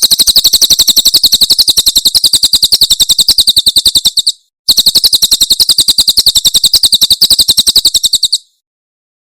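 Cililin bird singing its 'tembakan' song: a very fast, even, high-pitched trill of about a dozen notes a second, in two long runs with a short break about four seconds in.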